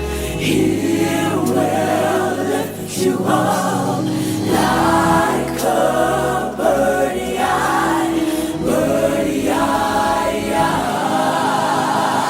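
Choir singing a gospel song in sustained chords that change every second or two, over a low bass line.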